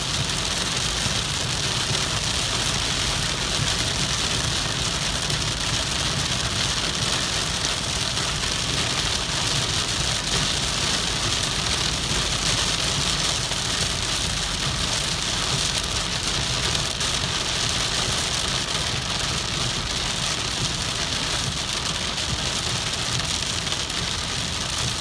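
Heavy rain falling steadily in a thunderstorm, an even hiss of downpour with no single loud clap of thunder.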